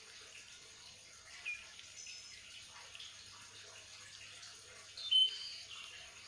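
A few short, high bird chirps over a steady faint background hiss, the loudest chirp a little after five seconds in.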